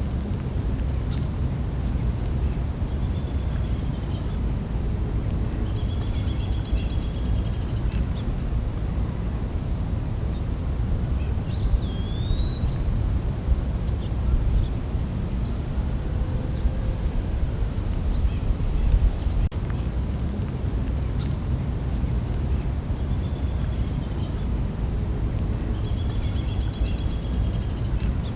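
Night forest insect chorus: a steady high trill with insects chirping in short rhythmic groups, a few brief higher arched calls, and one short wavering bird call about twelve seconds in, all over a steady low rumble.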